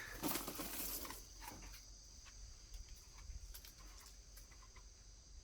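Insects trilling steadily in the background, with a short rough scratching sound in the first second or so and a few faint light clicks after it.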